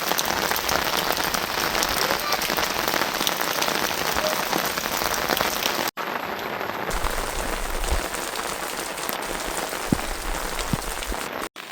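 Rain falling steadily, a dense patter of many drops. The sound drops out for an instant about six seconds in and again near the end.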